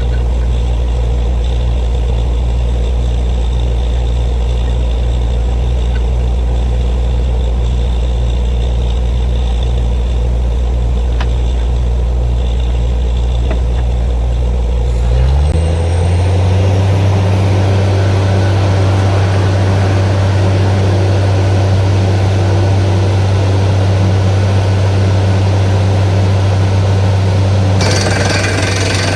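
Borewell drilling rig's engine running steadily at a low speed, then revving up to a higher steady speed about halfway through. Near the end a harsher, brighter noise joins it as the drilling gets going.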